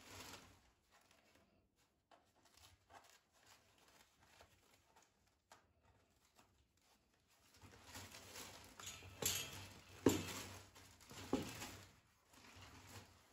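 Quiet household handling sounds: soft rustling and scattered small clicks and knocks. They grow busier and louder about halfway through, with a few sharper knocks.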